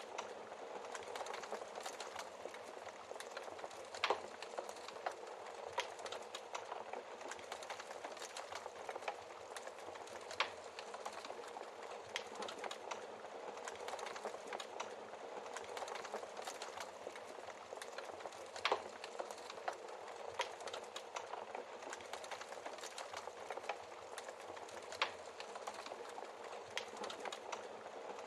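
Log fire crackling steadily, a dense run of small crackles with a handful of sharper pops spread through it. The loudest pop comes about four seconds in.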